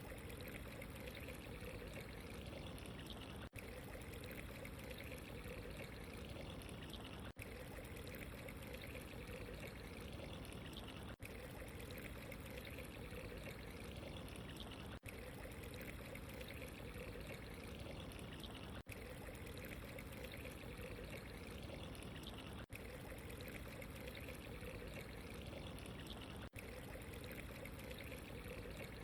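Steady running water, a soft even trickle with no other events, dipping briefly in level about every four seconds.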